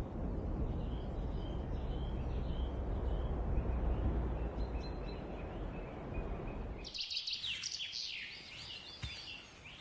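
Forest ambience: a steady low rush with a few faint bird calls, then, about seven seconds in, an abrupt change to a busy chorus of small birds chirping and singing.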